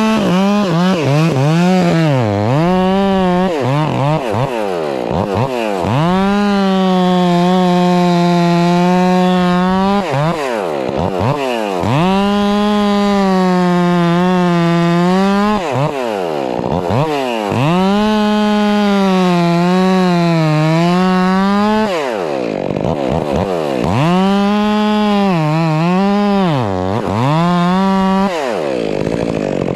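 Two-stroke Stihl MS 400 C chainsaw cutting through a firewood log at full throttle in long runs of several seconds, the throttle let off to idle about every four to six seconds, its pitch sagging slightly as the chain loads up in the wood.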